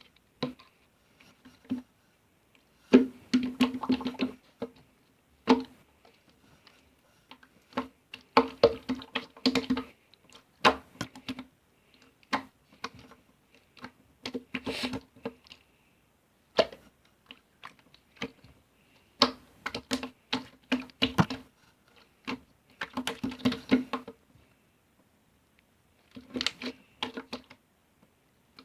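Irregular runs of quick taps and clicks with short pauses between them. The louder runs carry a faint low ringing tone.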